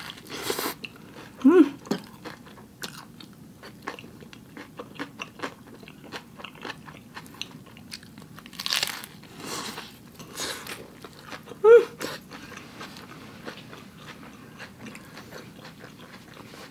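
Close-up biting and chewing of a large, overstuffed vegan burger with potato chips in it: crunching with wet mouth clicks and smacks, and a few louder crunchy bites. Two brief hums, about a second and a half in and near twelve seconds.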